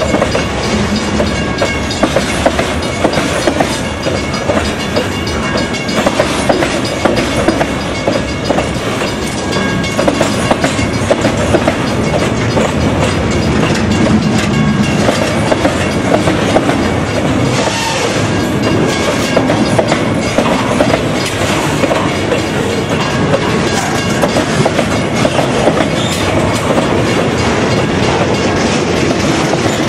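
Freight train rolling past, its cars' wheels clattering steadily over the rail joints.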